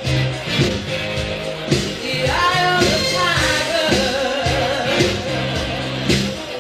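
Live band music with a steady beat, and a singer holding a long, wavering phrase in the middle.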